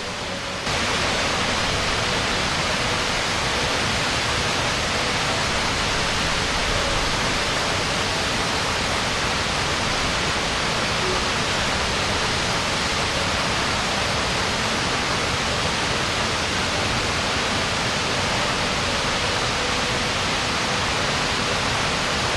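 Steady roar of Niagara Falls' falling water, an even rushing that steps up in loudness about a second in and then holds.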